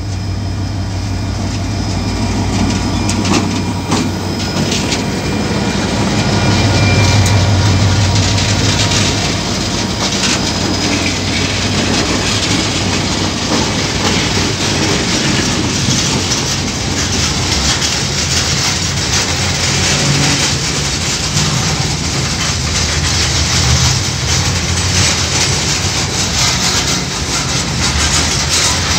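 KiwiRail coal train passing close by. Its diesel locomotives' engines run loudest about seven seconds in as they go by, then the coal container wagons follow with a steady rumble and clickety-clack of wheels on the rails.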